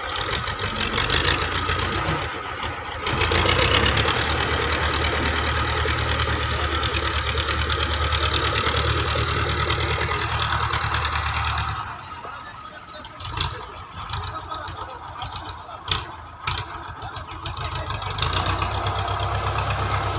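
Belarus 510 tractor's four-cylinder diesel engine running hard for several seconds while working the front bucket, then dropping back to idle about twelve seconds in, with a few sharp clunks, and revving up again near the end.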